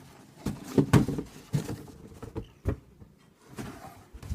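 A cardboard box being handled and shifted: a few separate knocks and thumps with light scraping and rustling between them.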